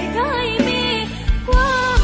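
Live band music in a break between sung lines: a gliding lead melody over steady bass, with a few thumping kick-drum beats in the second half.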